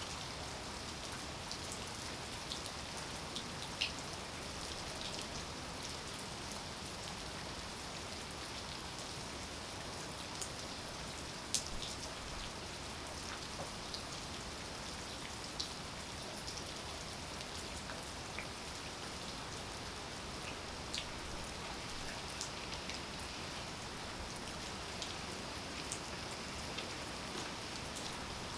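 Steady rain falling, an even hiss with scattered close drops ticking on a surface; one drop lands louder than the rest about halfway through.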